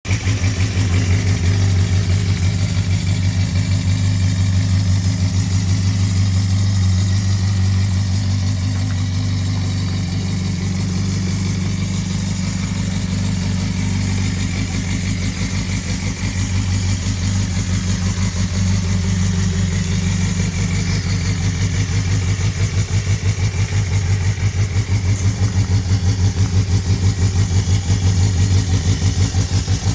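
Suzuki GSX-R250 inline four-cylinder engine idling steadily, heard through its exhaust muffler, a low even pulsing note that holds its pitch.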